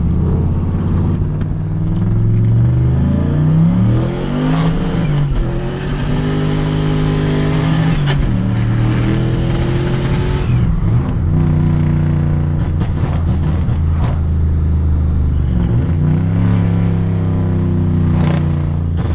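Turbocharged BMW 540i's engine accelerating hard through the gears, its pitch climbing and then dropping back at each shift, several times over.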